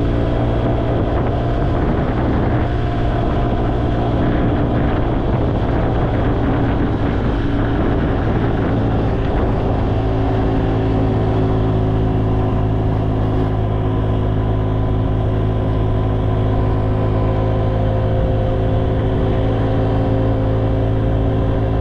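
An engine running steadily at constant speed, a continuous drone whose pitch shifts slightly about halfway through.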